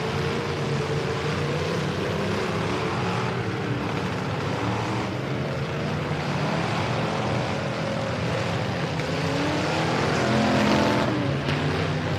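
Several demolition-derby full-size trucks' engines running hard at once, their pitch rising and falling as they rev. One engine revs up louder about ten seconds in.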